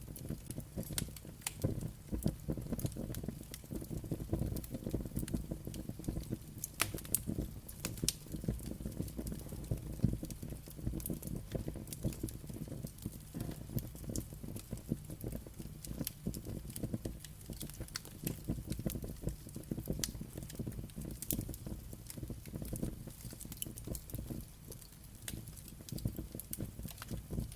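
Wood fire crackling and popping: scattered sharp pops at an irregular pace over a steady low rumble of burning.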